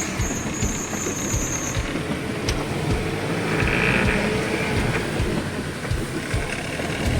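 Truck in motion, heard from the cab: the engine running under a dense, irregular rattling and knocking of the cab and body over the road.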